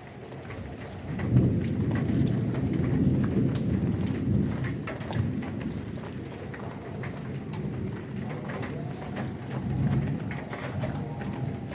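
Heavy rain falling, with many single drops striking close by. A low rumble of thunder comes in sharply about a second in, rolls on for several seconds as it fades, and swells again near the end.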